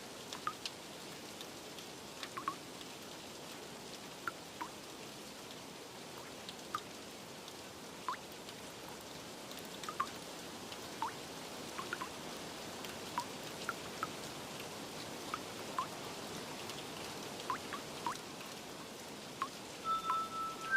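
Steady light rain with scattered individual drops plinking and dripping. Near the end, a few soft chime notes of music come in.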